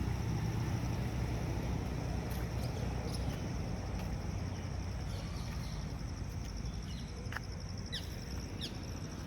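Insects trilling steadily at a high pitch, with a few short, falling bird chirps in the last few seconds, over a low background rumble that eases off slightly.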